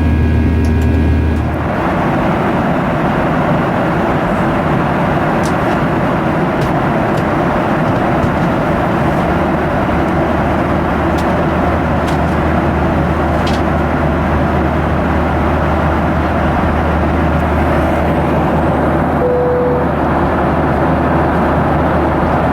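Steady cabin roar of a Boeing 737-900 in flight, its CFM56-7B engines and the airflow heard from inside the forward cabin, with a deep low hum; some steady engine tones drop away about a second and a half in. A brief single tone sounds near the end.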